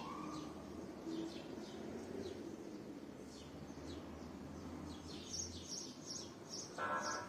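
Small birds chirping: repeated short, high chirps that fall in pitch, with a quick run of them near the end. A low steady hum runs underneath and fades out about six seconds in.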